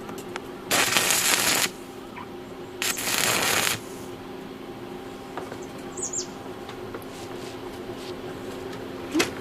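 Electric arc welding on a flue pipe: two crackling, hissing bursts of about a second each, over a steady low hum.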